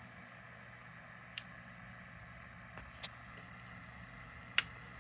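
Faint steady electrical hum from the radio receivers and scanners, broken by three short sharp clicks spread across the few seconds.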